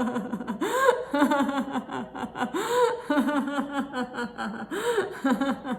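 A woman laughing heartily in quick 'ha-ha-ha' bursts, her pitch swooping up with a new burst about every second, in a deliberate laughter-yoga exercise.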